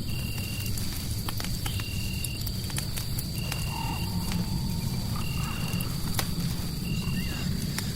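Layered night ambience: a fireplace crackling with scattered sharp pops over a steady low rumble. A short, even, high chirp repeats about every second and a half, over a thin steady high tone.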